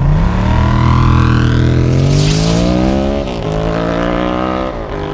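KTM 890 Duke's parallel-twin engine accelerating hard, its pitch climbing for about three seconds, then dropping twice as it shifts up through the gears.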